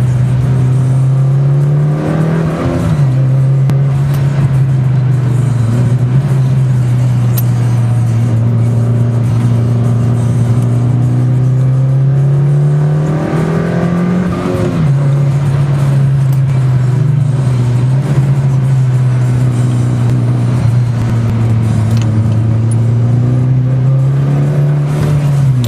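Mitsubishi Lancer Evo IX's turbocharged four-cylinder engine heard from inside the cabin, pulling hard with its pitch climbing slowly through long gears. The pitch drops quickly at three upshifts: about two seconds in, near the middle and at the very end.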